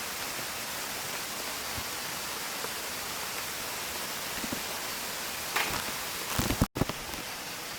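Mountain stream flowing steadily, heard as an even rushing. About six seconds in, a short cluster of louder knocks and rustles is followed by a brief, abrupt dropout.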